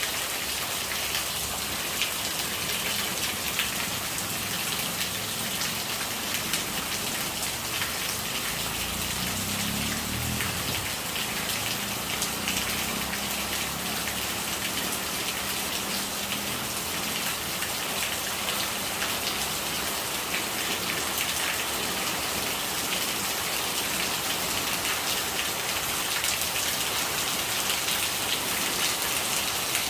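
Steady rain falling, dense raindrops hitting surfaces, with rainwater gurgling as it runs. A brief low rumble comes about nine to eleven seconds in.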